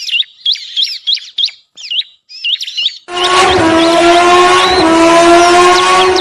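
Rapid, bird-like high chirps, four or five a second, broken by abrupt silent gaps at first. About three seconds in, a loud, steady hum of several tones joins them and rises slowly in pitch.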